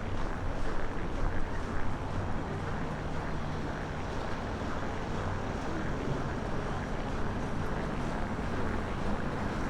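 Strong blizzard wind buffeting the microphone, a dense low rumble that gusts harder in the first two seconds, with a faint steady low hum underneath.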